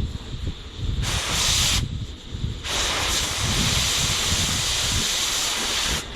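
Cutting torch on steel plate, hissing loudly. The hiss drops out briefly twice early on, then runs steadily.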